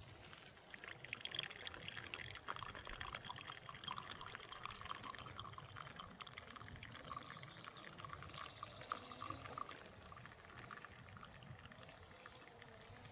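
Liquid being poured into a container, a steady splashing pour that stops about ten seconds in.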